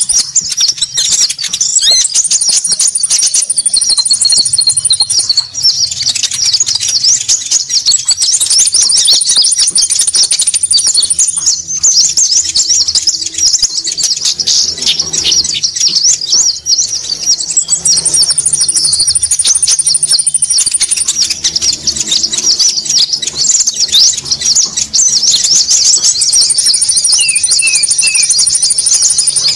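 Busy, dense chattering of many small birds, the konin bird lure call, with a thin, steady, very high trill that comes in four times for about three seconds each. Near the end come three short falling chirps.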